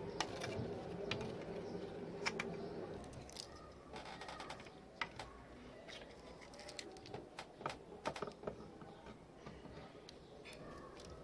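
Light, irregular clicks and taps of small hard parts being handled, several a second at times, over a faint steady hum that fades out about three seconds in.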